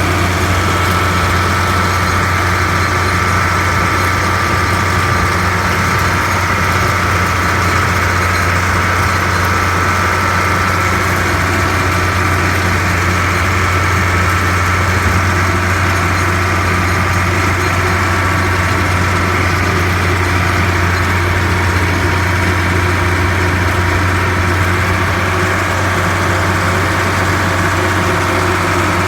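The rebuilt engine of a Bobcat 1155 running at a steady speed, warmed up after about two hours of work, with a constant low hum.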